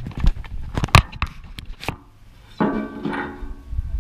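About six sharp knocks and clatters in the first two seconds, as of metal hitch-rack parts and tools being handled, followed about two and a half seconds in by a short voiced sound.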